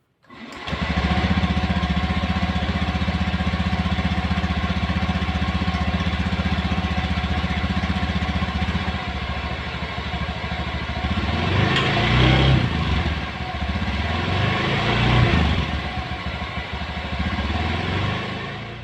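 Honda Zoomer-X 110cc single-cylinder scooter engine breathing through an aftermarket MT8 racing exhaust. It starts about half a second in and idles steadily, then is revved up and back down twice in the second half.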